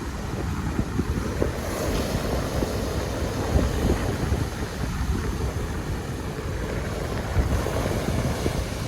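Sea waves washing onto a beach, with a swell of surf about two seconds in and again near the end, under heavy wind buffeting the microphone.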